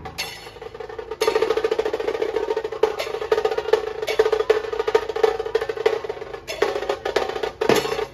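Nasik dhol drumming: a fast, dense roll of rapid drum strokes that gets louder about a second in, breaking into separate heavier beats near the end.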